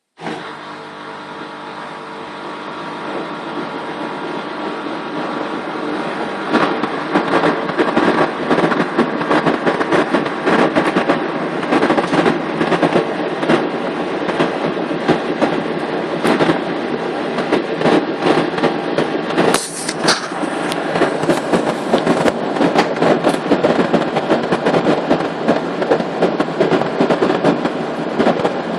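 LG F1294TD washing machine running with a strange noise: a whirring that builds over the first few seconds, then from about six seconds in a fast, irregular clattering and knocking on top of it. There is a brief high squeal about twenty seconds in.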